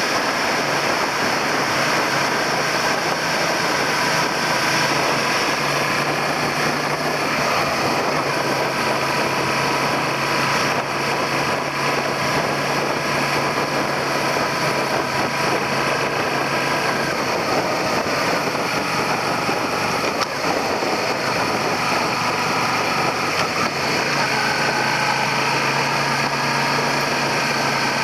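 Suzuki SV400's 400 cc V-twin engine running on the move, with steady wind and road noise over a handlebar-mounted camera. The engine note rises a few seconds in, drops about two-thirds of the way through, and picks up again near the end.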